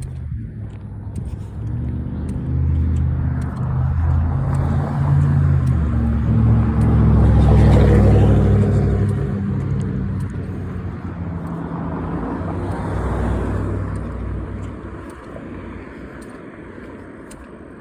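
A motor vehicle driving past on the road, its engine and tyre noise growing louder to a peak about halfway through and then fading away.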